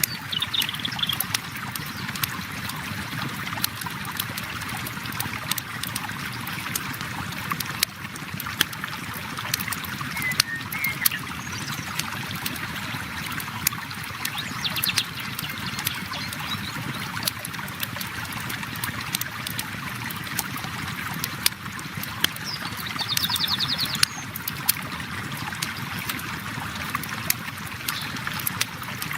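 A river flows steadily while a campfire crackles with irregular sharp pops. A bird chirps now and then, with a short trill about three-quarters of the way through.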